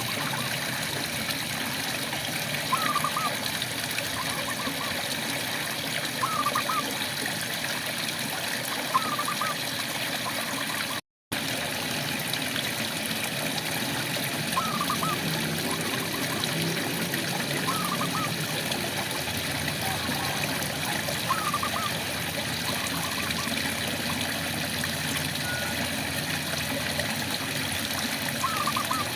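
Steady rain falling, with a frog giving short, rising calls every few seconds. The whole sound cuts out for a split second about eleven seconds in.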